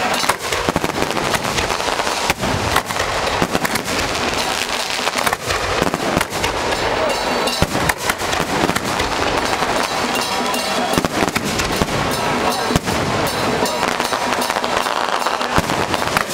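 Strings of firecrackers going off nonstop, a dense, rapid crackle of sharp bangs with no break.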